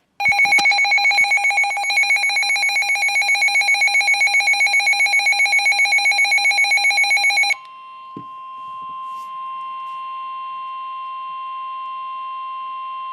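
Midland weather radio's built-in alert alarm: a loud, rapidly pulsing electronic beep lasting about seven seconds. It then switches to the broadcast's steady NOAA 1050 Hz warning alarm tone, a quieter single tone, which signals that a warning is about to be read.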